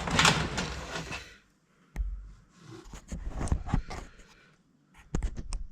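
Handling noise from a camera being repositioned: a rustle over the first second or so, then a sharp click and a scatter of knocks and taps.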